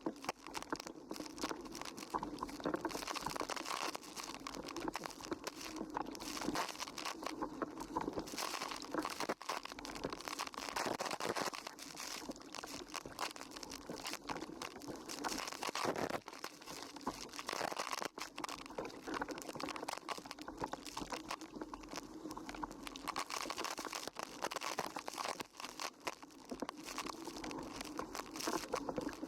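Wind buffeting and crackling on the microphone, with water rushing and spray, from a slalom windsurfer planing at speed in strong wind. The noise is continuous and rough, with an uneven, fluttering level.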